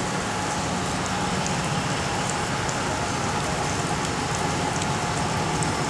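Steady rain falling: a constant hiss with scattered sharp ticks of drops hitting nearby. A faint steady hum runs underneath.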